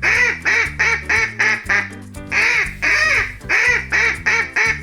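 Duck quacking in three quick runs of short, loud quacks, over a steady background music track.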